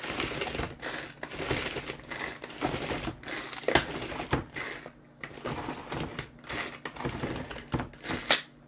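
Cookies and softened ice cream being crushed and worked together in a plastic container: a run of irregular scraping, crunching strokes with sharp clicks, the loudest clicks near the middle and near the end.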